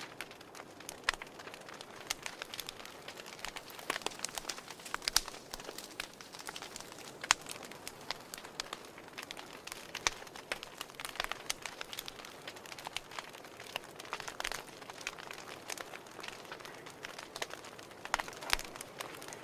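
Fire crackling: irregular sharp pops and snaps, a few louder ones standing out, over a soft steady hiss.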